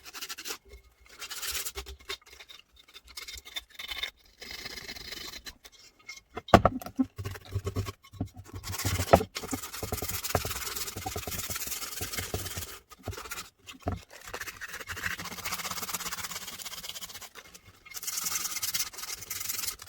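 Hand rubbing with an abrasive on a cast-aluminium pressure canner: irregular scratchy strokes with short pauses, and a couple of sharper knocks about a third and halfway through.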